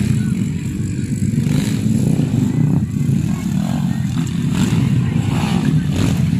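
Motocross dirt bike engines running steadily.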